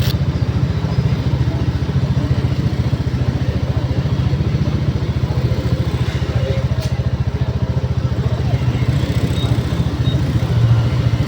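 Vehicle engine running steadily with a fast, even beat, heard close.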